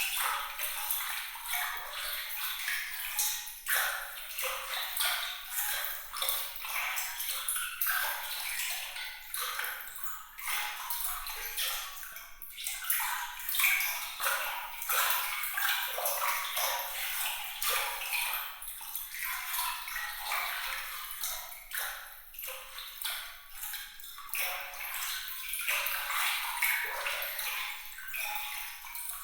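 Water trickling and bubbling continuously, full of small bright plinks and splashes, all high and light with no deep sound beneath it.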